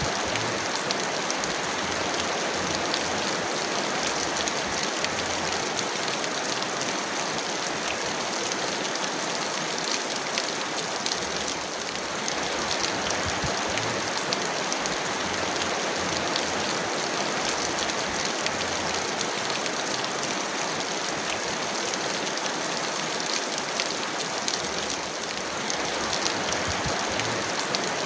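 Heavy rain falling steadily, an even dense hiss with countless fine drop patters.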